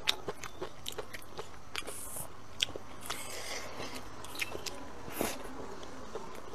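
A person chewing and biting food into a close clip-on microphone, with many short sharp clicks and small crunches scattered through it.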